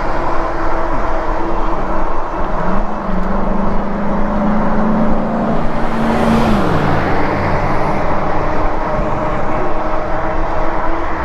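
Steady wind rush and road noise while riding a Lectric e-bike along a road, with a steady hum that comes in a couple of seconds in and falls away in pitch about seven seconds in.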